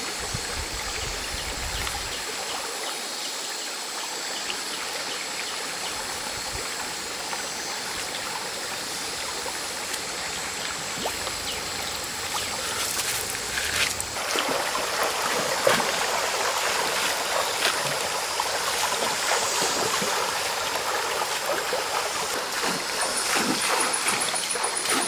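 Shallow stream water running and trickling steadily; about halfway through it gets louder and busier, with small splashes.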